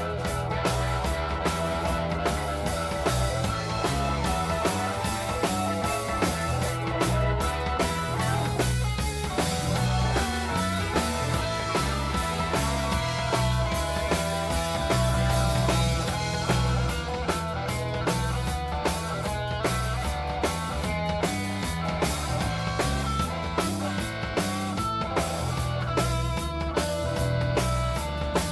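Live rock and roll band playing an instrumental passage: electric guitar, keyboard, bass and drum kit with a steady beat.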